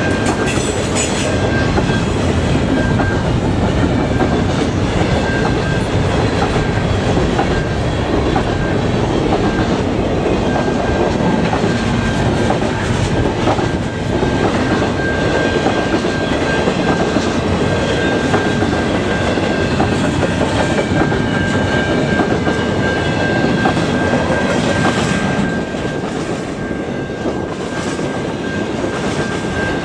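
Double-stack intermodal freight train rolling past: a steady rumble of loaded well cars with wheels clattering over the rail joints. A thin high ringing tone comes and goes over the top, and the sound drops a little near the end.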